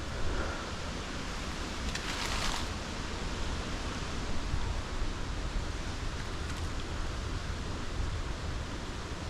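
Strong wind buffeting the microphone: a steady rushing noise with a low rumble, and a brief louder rustle about two seconds in.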